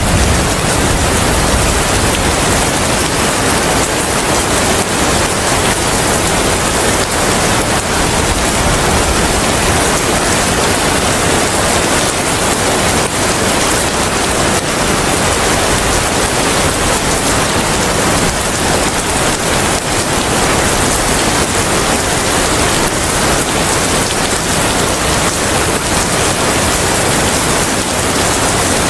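Steady, dense rainfall without a break. The tail of a low rumble dies away in the first second.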